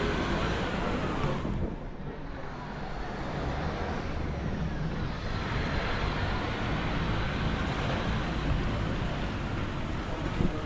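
Road traffic noise: vehicles running and passing along a street, a steady rushing din.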